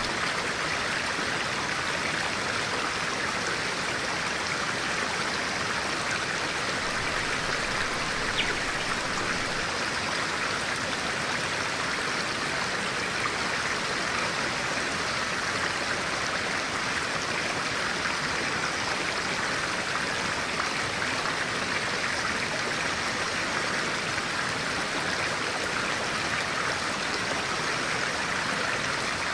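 Clear stream flowing steadily over rocks, an even rush of water, with one brief tick about eight seconds in.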